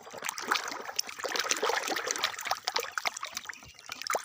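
Water running and splashing over muddy plastic toy vehicles as they are washed by hand, with many sharp clicks and knocks of the plastic being handled. It eases off for a moment about three seconds in.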